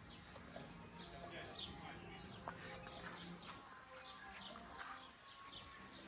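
Birds chirping and calling faintly in the trees: many short, quick notes from several birds, overlapping.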